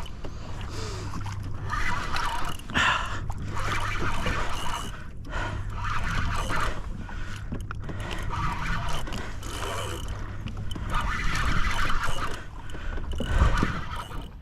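Water sloshing and scraping handling noise around a fishing kayak, with a heavier low thump near the end.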